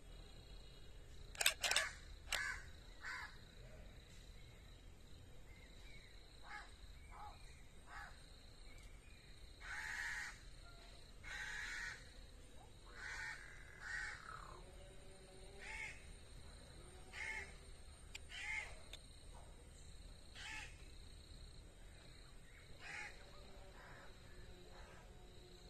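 A bird calling again and again, short harsh calls every second or two, the loudest pair near the start, over a faint steady high tone.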